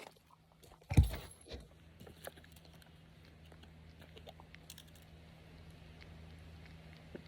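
Small clicks and rattles of handling, with one loud, sharp thump about a second in and a lighter one half a second later, over a faint steady low hum.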